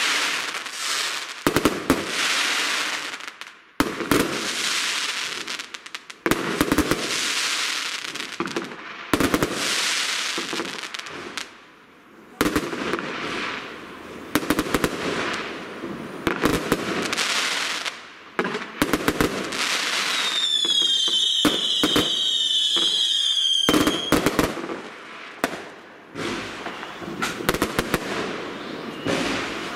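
Fireworks display: aerial shells bang one after another every two or three seconds, each burst followed by a crackling fizz of stars. About two-thirds of the way through, a shrill whistle sounds for about three seconds, falling slightly in pitch.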